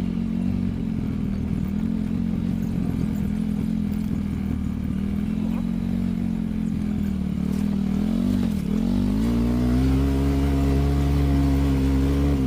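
A vehicle engine running steadily. Its pitch dips about eight seconds in, then rises and holds higher as it speeds up.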